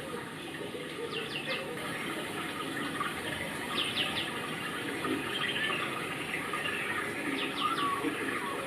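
A bird calling three times, each call a quick run of three or four falling chirps, over a steady rushing background like running water, with faint voices.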